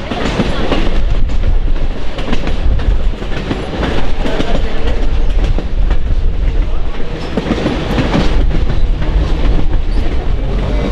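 Train running on the track, its wheels clattering steadily over the rails.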